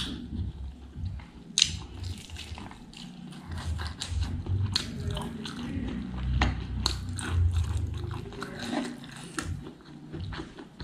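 Close-miked eating: wet chewing and biting of smoked fatty pork and rice, with many small mouth clicks and two sharp, loud bites, one at the start and one about a second and a half in.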